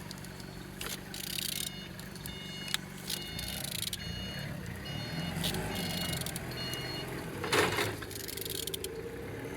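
Steady low machinery hum with short high-pitched beeps repeating through the middle, a few scattered clicks, and one brief loud rustle about seven and a half seconds in.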